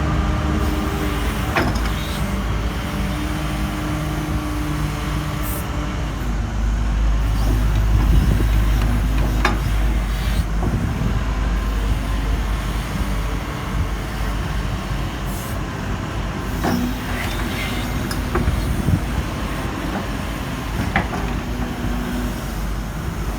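Diesel engine of a Doosan DX140W-5 wheeled excavator (Doosan DL06) running with a steady low rumble, swelling louder about eight seconds in, with a few short knocks and clicks.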